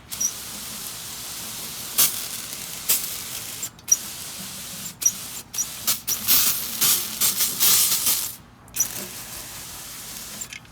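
Aerosol can of brake cleaner spraying: a steady hiss with a run of louder, choppy spurts in the second half.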